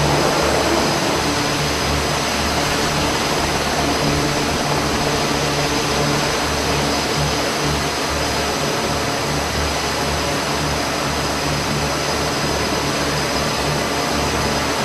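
Aircraft engines running with a steady, loud roar and a low throbbing hum underneath.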